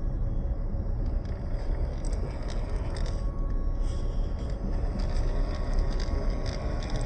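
WPL C24 scale RC crawler truck driving over rock: a faint steady whine from its electric motor and gears, with tyres scraping and scattered small clicks, over a steady low rumble.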